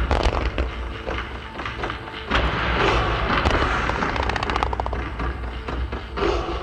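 Fireworks display firing rapid volleys: a dense rattle of launch reports and crackle with low booms underneath. It gets louder about two seconds in.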